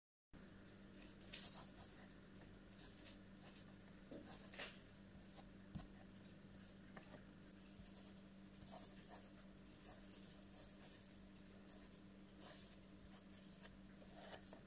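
Pen scratching across paper in irregular short strokes as a signature is written by hand, faint, over a steady low hum.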